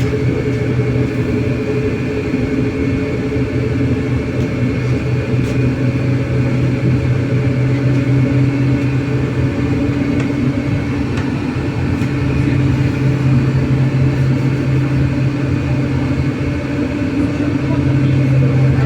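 Cabin noise of a MAZ-303E10 electric bus under way: a steady electric hum over road rumble, swelling slightly about two-thirds of the way through and again near the end.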